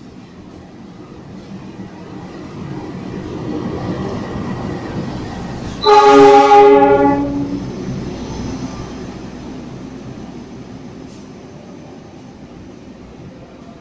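CC 206 diesel-electric locomotive approaching and passing at speed, its running noise growing louder, then one loud horn blast of about a second and a half as it goes by. The noise of the passing train then fades.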